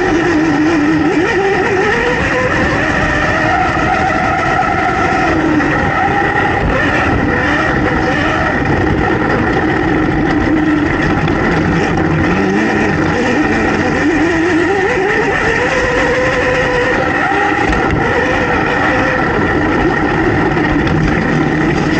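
Motocross dirt bike engines running on a track, several at once, their pitch rising and falling every few seconds as the riders work the throttle through the lap.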